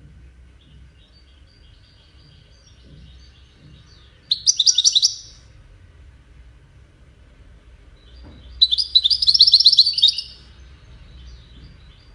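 European goldfinch singing 'widani'-style song: soft high twittering, then two loud bursts of fast trilled notes, the first about four seconds in and a longer one about eight and a half seconds in. This is a tutor song for young goldfinches to learn.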